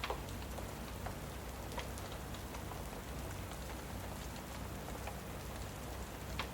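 Steady rain, with a few sharp crackling pops from a log fire.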